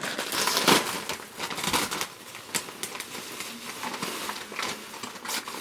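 Bags crinkling and rustling, with scattered light clicks and knocks, as the prank supplies are picked up and carried. The rustling is loudest just under a second in, then settles into intermittent handling noise.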